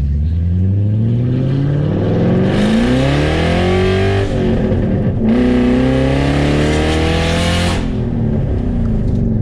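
BMW E34 540i V8 running with no muffler or resonator, essentially a straight pipe after high-flow cats, very loud. It climbs in pitch under hard acceleration, drops briefly at a gear change about four seconds in, climbs again, then falls away as the driver lifts off near the end.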